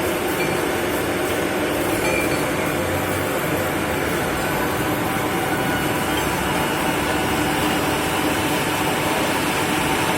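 A machine running steadily: a constant mechanical drone with a few steady tones in it, unchanging in level throughout.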